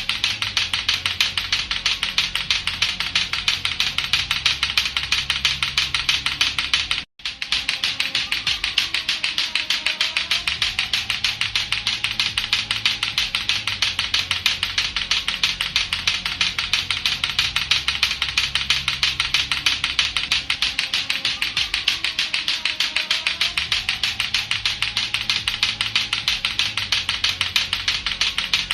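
Lato-lato clacker toy, two hard plastic balls on a string knocked together, clacking in a rapid, steady rhythm. The clacking stops briefly about seven seconds in, then goes on.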